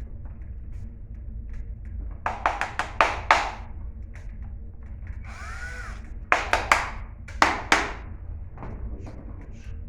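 Clicks and knocks of a screwdriver and the plastic drill housing being handled while its screws are taken out, in three quick clusters, with a short whir about halfway through.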